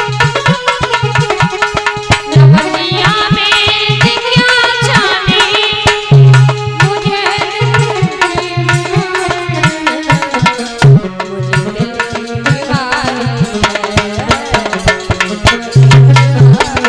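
Indian folk song music: hand drums playing a fast, dense rhythm with heavy bass drum strokes every few seconds, under a wavering, ornamented melody line.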